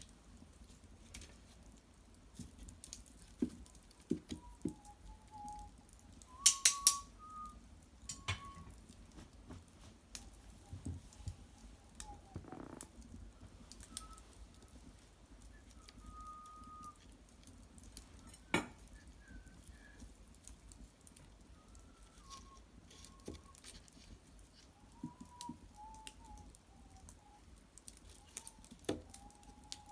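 Wood fire in an irori hearth crackling, with scattered sharp pops and snaps, the loudest about six and a half seconds in and again past eighteen seconds. Short, thin wavering whistles come and go every few seconds.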